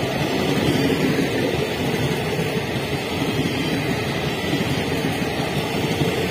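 Indian Railways passenger coaches passing close at speed: a steady rumble of wheels on rail.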